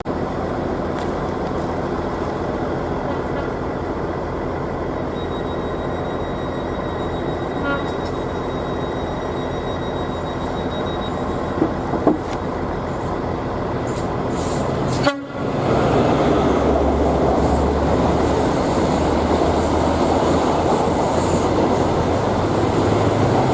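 A train running past with a steady rumble. About fifteen seconds in the sound breaks off abruptly and comes back as a louder, deeper rumble.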